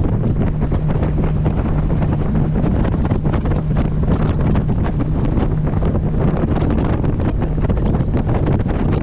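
Heavy wind buffeting a camera microphone on a moving boat, over the steady hum of the boat's engine.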